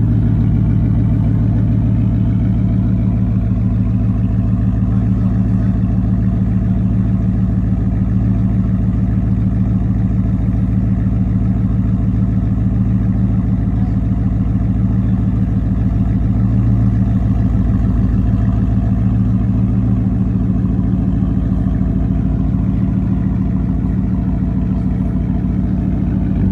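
Ford truck engine running steadily with a deep, even note, its pitch and loudness holding nearly constant throughout.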